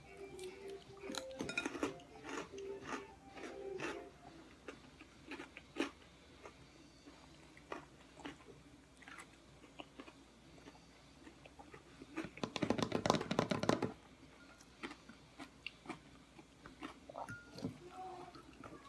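A person chewing a mouthful of salad with croutons, with scattered crunches and mouth sounds. About two-thirds of the way through comes a louder run of close crunching lasting about a second and a half.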